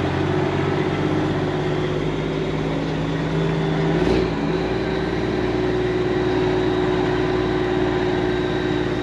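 Engine idling steadily, a constant low hum that shifts in tone once about four seconds in.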